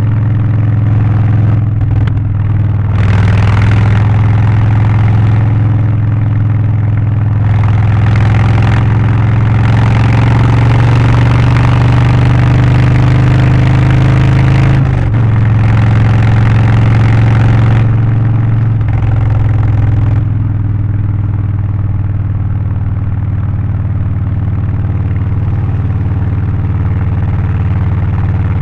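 Harley-Davidson Low Rider ST's Milwaukee-Eight 117 V-twin with a Stage 1 exhaust, intake and remap, running loud and deep under way. Its pitch climbs steadily, dips at a shift about halfway through and again a few seconds later, then holds a lower, steadier note.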